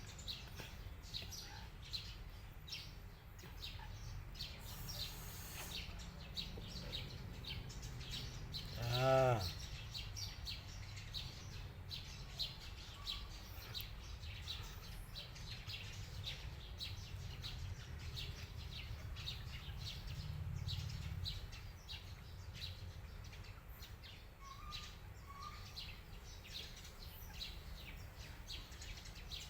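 Cats eating, with rapid, irregular small clicks of chewing. About nine seconds in comes one drawn-out animal call that bends in pitch, the loudest sound here.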